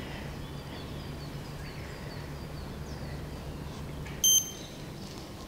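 Small birds chirping in short repeated calls over a steady outdoor background. About four seconds in, a single brief, loud, high beep cuts in.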